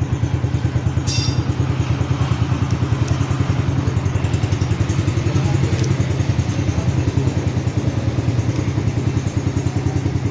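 Ghani 70cc motorcycle's single-cylinder four-stroke engine idling steadily with a fast, even putter.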